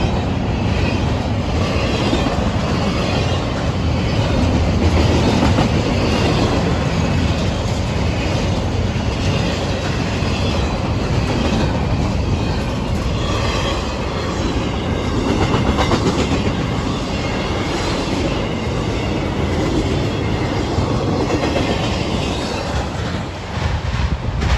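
Railroad cars rolling past, a steady loud rumble of steel wheels on rail with clickety-clack over the rail joints.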